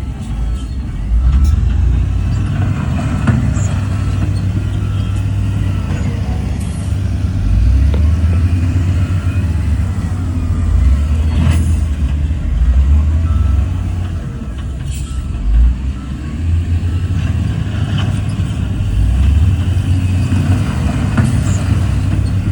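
Heavy diesel machinery running with a steady low rumble, with a few sharp clanks scattered through it.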